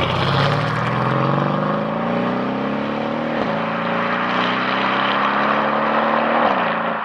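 Brabus 650–tuned Mercedes S63 AMG V8 accelerating hard, its note climbing in pitch, with a quick gear change about three and a half seconds in and another near the end as it keeps pulling.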